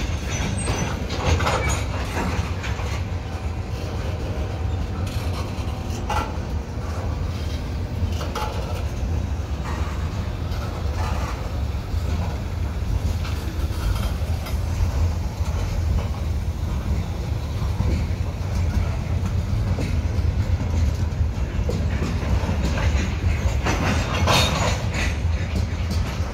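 Slow-rolling freight train of tank and covered hopper cars passing close by: a steady low rumble of steel wheels on rail, broken by occasional clicks and clanks, a cluster of them near the end.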